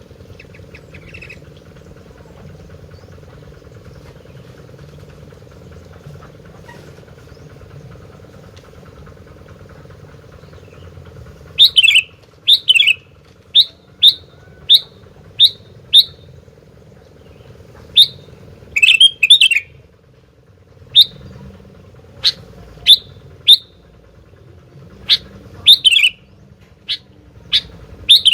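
Kutilang (sooty-headed bulbul) calling: after a stretch of only a steady low hum, a series of loud, short, clear high notes begins about halfway through, some coming in quick pairs and groups of two or three, and carries on to the end.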